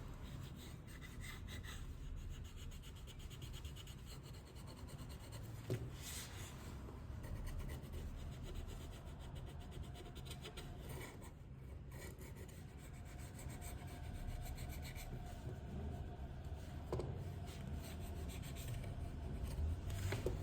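Faint rubbing and scraping of small repair tools on an iPhone XR's parts, with fine ticks and an occasional small click.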